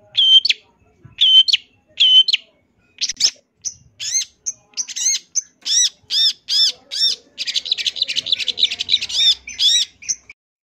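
Long-tailed shrike (cendet) singing a varied song. It opens with short notes repeated about every two-thirds of a second, then from about three seconds in changes to quicker arched whistled notes. A dense burst of rapid chatter follows past the middle, then more arched notes before it stops near the end.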